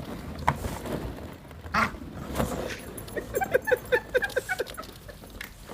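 Dog whimpering: a rapid string of short, falling whines, about five a second, starting a little past halfway, after a few light knocks.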